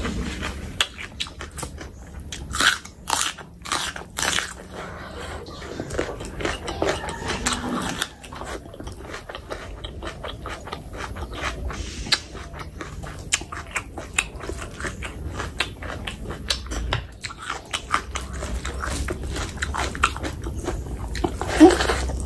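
Close-miked eating: wet chewing and lip smacks of chicken skin curry and rice, with crisp crunches of bitten raw onion, the loudest cluster of crunches a few seconds in. A loud bite comes near the end.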